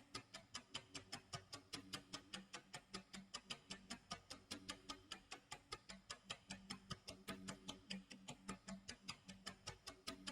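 Clock tick-tock sound effect: faint, fast, even ticks, about five a second, with a low tone sounding on and off underneath.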